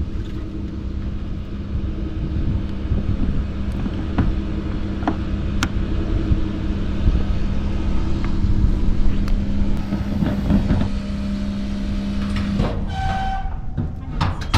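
Electric fuel-bowser pump motor humming steadily under a low rumble with scattered clicks, then switching off about two seconds before the end. A short high-pitched tone follows.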